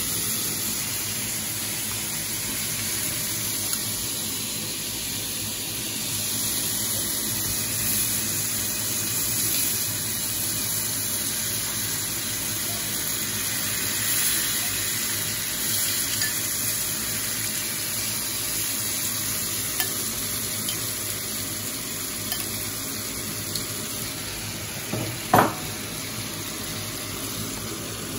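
Melted butter sizzling steadily in a frying pan, with yogurt-marinated chicken pieces tipped in partway and frying in it. A single short, sharp knock comes near the end.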